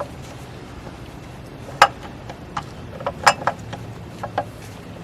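Scattered light clicks and clinks as a chainsaw's plastic fuel cap and small parts are handled: the sharpest comes about two seconds in, then a quick cluster a little past the middle and two more near the end.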